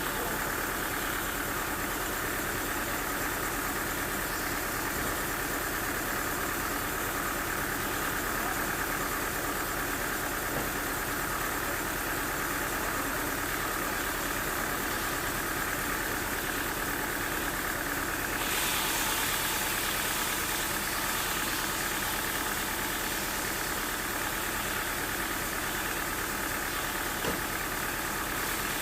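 Sawmill engine running steadily, with a hissier, slightly louder sound joining about two-thirds of the way through and carrying on.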